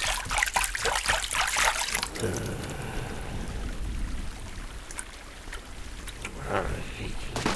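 Water sloshing and trickling, busiest for the first two seconds, then quieter with a few faint knocks toward the end.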